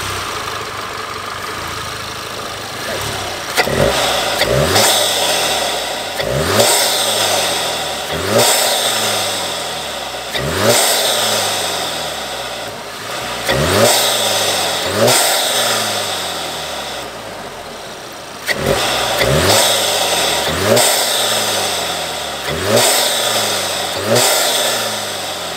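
Volkswagen Mk7 GTI's 2.0-litre turbocharged four-cylinder, breathing through a CTS cold air intake with an open cone filter, revved repeatedly while stationary: about a dozen sharp blips, roughly one every two seconds, each rising quickly and falling back toward idle, with a loud rushing hiss from the intake on every blip.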